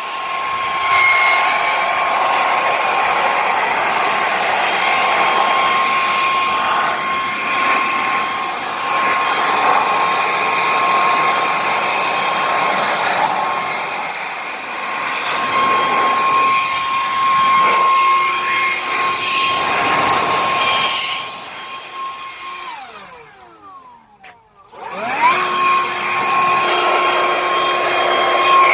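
Makita cordless battery-powered leaf blower running with a steady whine and rush of air. About 22 seconds in it winds down and cuts out briefly, then spins back up to speed.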